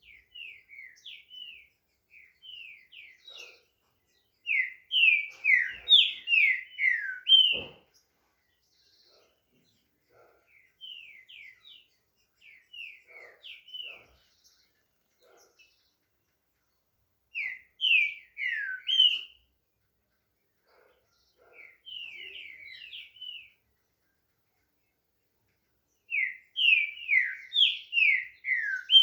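Green-winged saltator (trinca-ferro) singing: repeated phrases of quick, downslurred whistled notes, some soft and some loud, with pauses of a few seconds between them.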